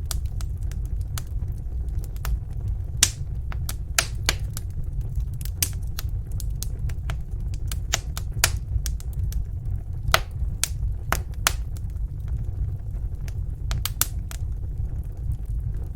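Wood fire crackling in a fireplace: irregular sharp pops and snaps, some in quick little clusters, over a steady low rumble.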